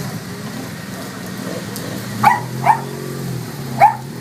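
A dog barking three times in short, sharp barks, two close together a little past halfway and one near the end, over a steady low engine hum.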